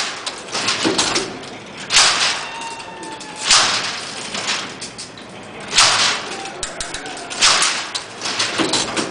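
Charles Babbage's Difference Engine No. 2 being hand-cranked: its gear columns clatter, with a loud crunching, slapping clack about every two seconds as the blades are clamped into and pulled out of the gears, and lighter clicks in between.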